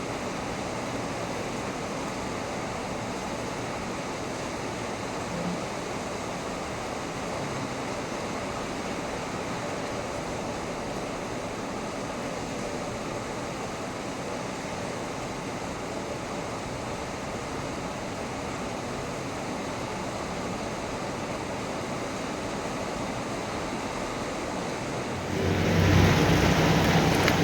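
Heavy rain falling steadily as a continuous rushing hiss. About 25 seconds in the sound abruptly becomes louder and deeper, with a heavier low rumble.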